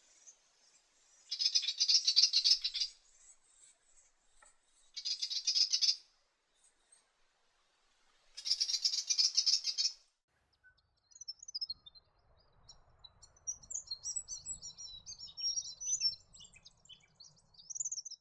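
Willie wagtail giving its harsh, rasping scolding chatter in three bursts a few seconds apart, followed from a little past halfway by a quicker run of many short, high twittering notes.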